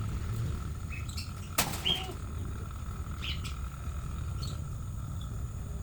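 Chickens in a coop: a few short, high calls scattered through, and one sudden sharp noise about a second and a half in, over a steady low rumble.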